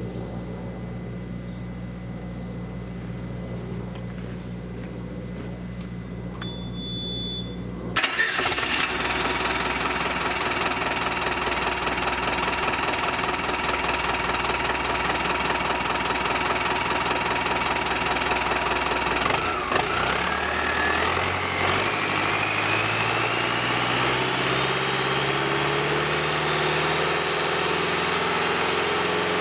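Yanmar 4LH-WST four-cylinder turbocharged marine diesel on a test run. A steady low hum and a short beep come first, then the engine starts suddenly about eight seconds in and runs. From about twenty seconds its speed rises steadily, the pitch climbing.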